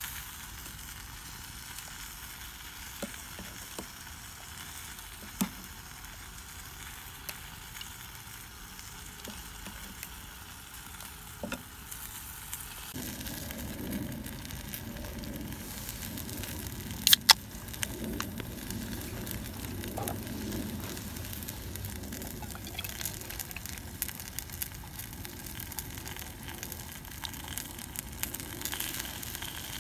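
Food frying in a pan over a wood campfire, a steady sizzle with a few sharp clicks, the loudest a little past halfway.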